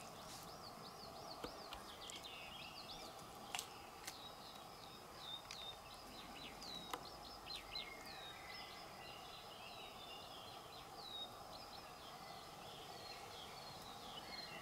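Faint chorus of small songbirds chirping and calling over a steady background hum, with a couple of soft clicks.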